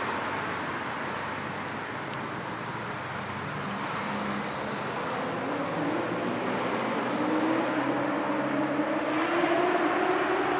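Road traffic on a city street: a steady wash of passing cars and tyre noise, with one vehicle's engine rising in pitch as it accelerates from about halfway through, getting louder toward the end.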